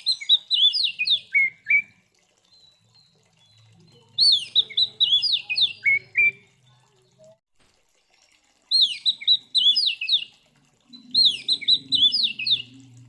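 Oriental magpie-robin (kacer) singing loud song phrases, four of them, each a quick run of clear whistled notes that fall in pitch and lasts under two seconds, with short pauses between.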